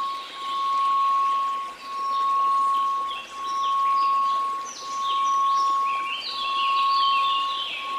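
A steady 1098 Hz sine tone whose loudness swells and dips about every second and a half, over a faint hiss of white noise. Short high chiming notes are scattered above it and grow denser in the second half.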